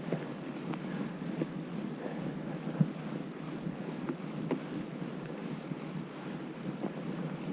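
Fat bike rolling through fresh snow: a steady rushing noise of the tyres and wind on the microphone, with scattered sharp clicks and knocks, the loudest about three seconds in.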